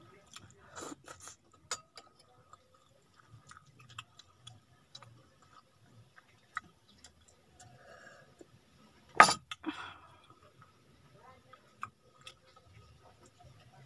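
Close-up eating sounds: chewing a mouthful of rice and sardines, with small mouth clicks. About nine seconds in, a single sharp clunk, the loudest sound, as the drinking glass is set down on the wooden board.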